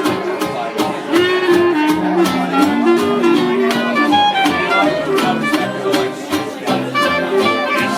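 Live band playing an instrumental break of a country tune, with a fiddle melody over a steady rhythm beat.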